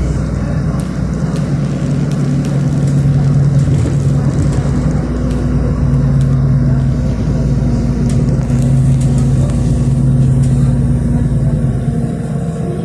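City bus engine running steadily under way, heard from inside the cabin: a constant low engine hum over road noise, easing off at the very end.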